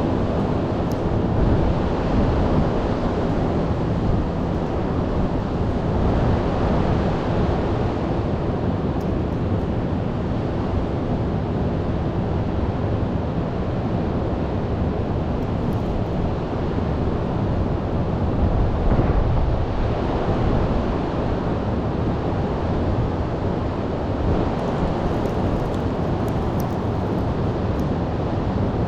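Heavy ocean surf breaking in a winter storm, a steady rushing roar, with strong wind buffeting the microphone.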